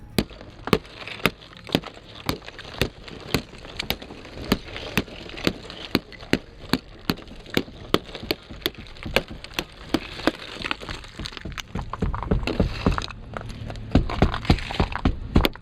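Ice being chipped off an iced-over car with a hard object: repeated sharp cracking knocks, about two to three a second, with a stretch of low rumble near the end.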